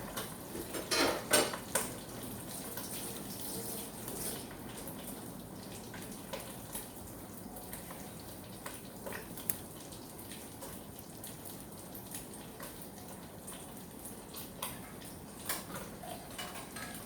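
Metal cooking utensils clinking and knocking against pots and pans, a few louder knocks about a second in and scattered lighter clicks after, over a faint steady hiss.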